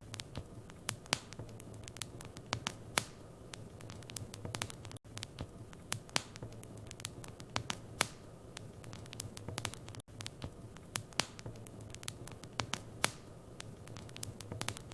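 Wood fire burning in a fireplace, crackling and popping with many irregular sharp snaps over a low steady rumble. The sound cuts out for an instant twice, about five and ten seconds in.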